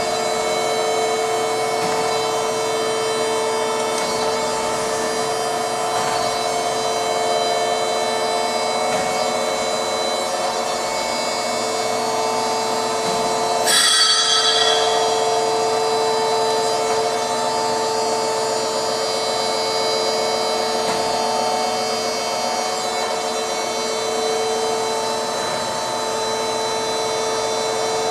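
1979 Danobat RT-2500 horizontal surface grinder running under power, a steady machine hum with several held tones. About halfway through comes a brief, louder burst with a high-pitched ring.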